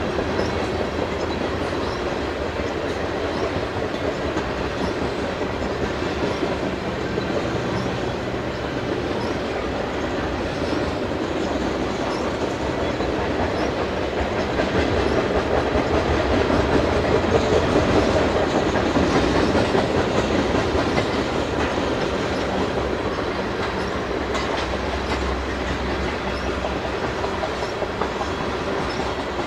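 Freight train of tank cars rolling past, steel wheels on steel rail making a steady rumble that grows a little louder midway.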